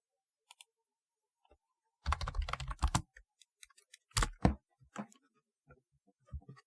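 Typing on a typewriter-style keyboard. A quick run of keystrokes comes about two seconds in, then two heavy strokes with a low thump a second later, then scattered single key presses.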